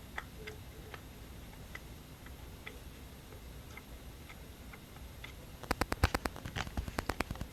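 Light, scattered clicks and taps from hands handling something, then a quick run of sharper clicks, about a dozen in a second and a half, near the end.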